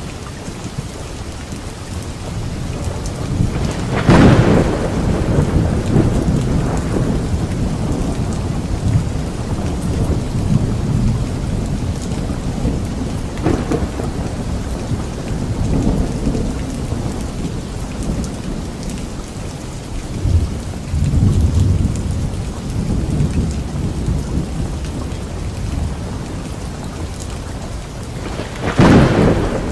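Steady rain during a thunderstorm, with thunder rumbling underneath. Loud thunderclaps break in about four seconds in and again near the end, with smaller rolls of thunder in between.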